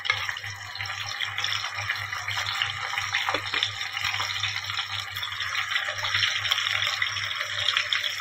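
Chicken pieces deep-frying in hot oil in an aluminium kadhai, a steady dense sizzle and crackle that grows gently louder. This is the second fry in very hot oil to make the pieces crisp.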